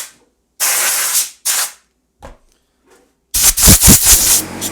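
Camera microphone being handled: short bursts of rubbing and scraping, then a cluster of rubs with a few low thumps near the end.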